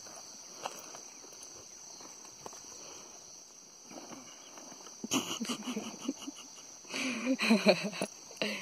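Steady high-pitched chirring of crickets. About five seconds in comes a short vocal sound, and from about seven to eight seconds a louder one.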